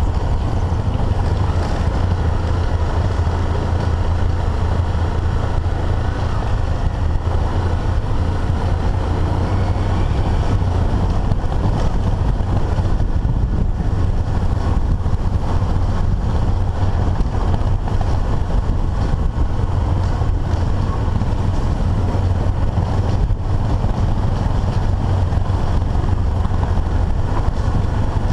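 Single-cylinder dual-sport motorcycle engine running steadily at riding speed, heard through a camera mounted on the bike, with wind rushing over the microphone.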